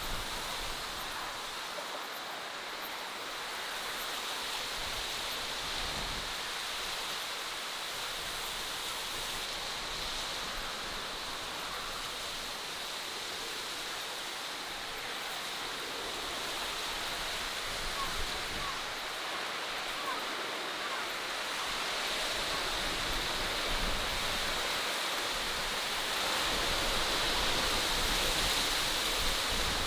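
Steady rushing of running water, swelling slightly over the last few seconds.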